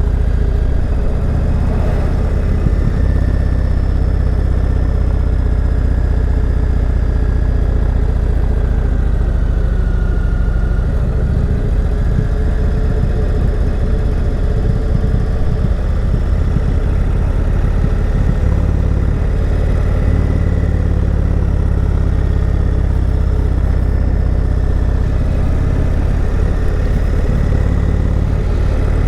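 Motorcycle engine running steadily under way, heard as a loud, even low rumble with no let-up.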